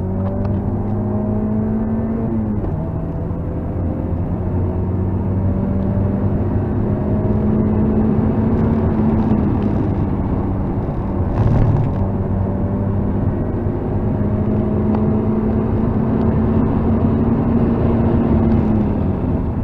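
Mazda MX-5 NC's 2.0-litre four-cylinder engine running hard at high revs through an aftermarket exhaust, heard from inside the cabin. The pitch climbs slowly and dips at about three seconds and again near the end. There is a short loud thump about eleven and a half seconds in.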